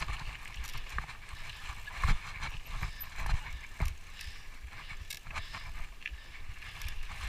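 Mountain bike rolling over a rough dirt trail: a steady low rumble with scattered rattles and sharp knocks as the bike hits bumps, the loudest about two and four seconds in.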